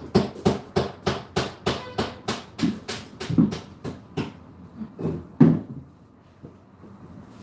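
Hammer striking repeatedly at a steady pace of about three blows a second, then two more blows after a short pause.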